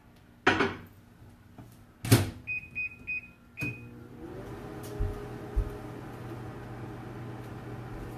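Microwave oven door opened and shut with a knock, then four keypad beeps as the time is set. The oven then starts with a click and runs with a steady hum. Two low thumps come in as it runs.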